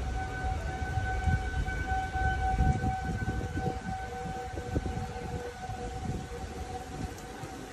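Outdoor tornado warning siren sounding one steady held tone that swells and fades slightly, with low rumbling noise underneath.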